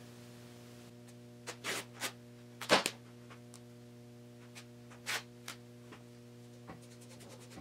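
A few scattered short clicks and light knocks of objects being handled, the loudest about three seconds in, over a steady electrical hum.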